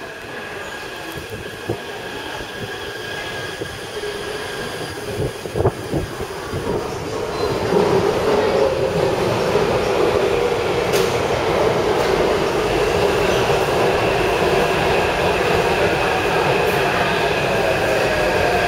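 Taipei Metro train running on the track, with steady tones over the rolling noise; the sound grows louder about eight seconds in and holds.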